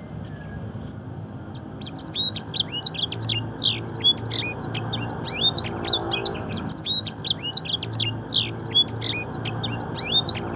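Domestic canary singing a fast, continuous run of sharp, mostly falling whistled notes. It is a canary song filled in with black-throated canary phrases. The song starts about a second and a half in and runs on without a break.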